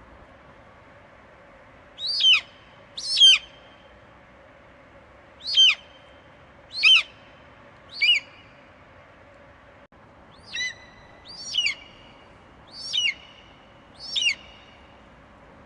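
Eagle screeching: nine short, piercing calls, each sliding sharply down in pitch, repeated every second or so with gaps between, over a faint steady hiss.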